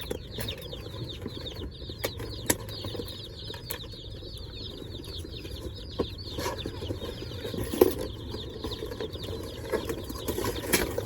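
A crowd of day-old Cornish Cross broiler chicks peeping nonstop inside their shipping boxes, a dense chorus of short, high, falling cheeps. A few sharp knocks are heard, about two, six, eight and eleven seconds in.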